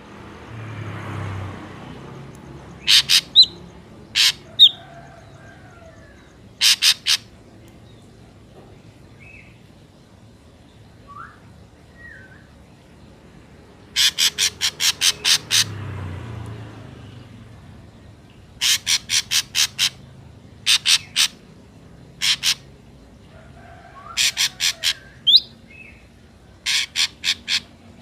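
Ashy drongo calling: loud runs of short, harsh, rapid notes, from two or three up to about eight at a time, repeated many times with pauses between, and a few softer gliding notes in the gaps.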